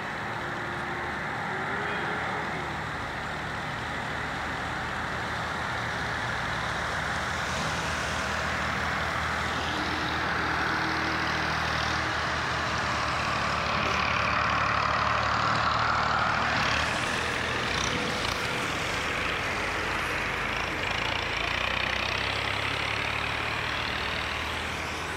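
Motor traffic on a rain-flooded road: vehicle engines running over a steady hiss of water under the tyres, growing louder about halfway through as a vehicle passes close.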